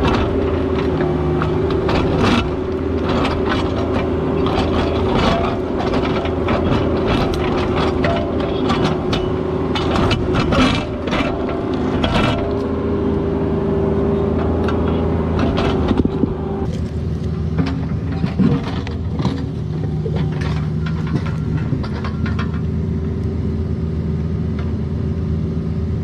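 Caterpillar 304 mini excavator's diesel engine running steadily under load while it digs, with frequent sharp clanks and scrapes from the digging in rocky ground. The clanks come thick for about the first sixteen seconds, then thin out.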